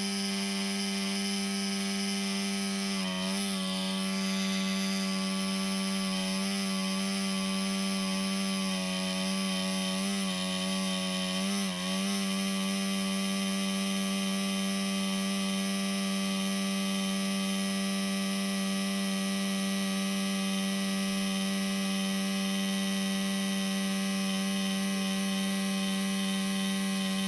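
Laptop cooling fan running with an abnormal steady buzzing hum and overtones, its pitch wavering briefly several times in the first half. The laptop's CPU overheats and shuts down.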